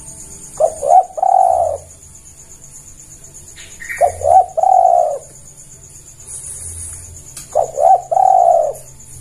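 Spotted dove (tekukur) cooing: three calls, each two short clipped notes followed by a longer drawn-out coo, repeated about every three and a half seconds.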